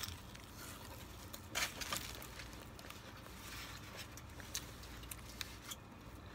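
Faint chewing and mouth clicks from someone eating a chicken BLT sandwich on soft, soggy bread, with one short, louder rustle about a second and a half in.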